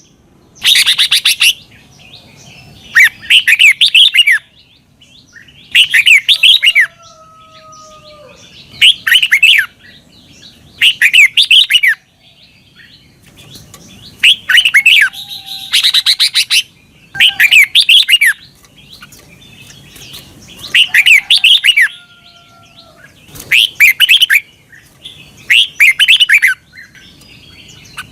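Red-whiskered bulbul singing: short phrases of quick, warbling chirps, repeated about every two seconds.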